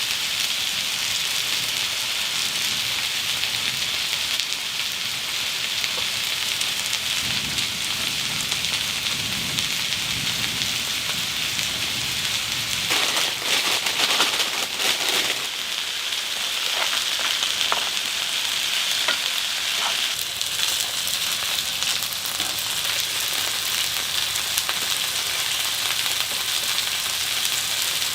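Food frying in a pan, a steady sizzle, with a few clicks and knocks about halfway through.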